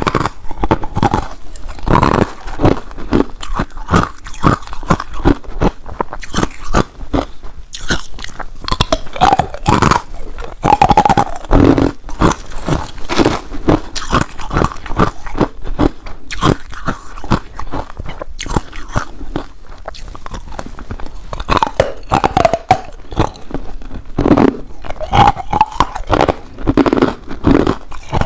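Ice being bitten and chewed close to the microphone: a rapid, irregular run of loud crunches and cracks as the ice is broken between the teeth.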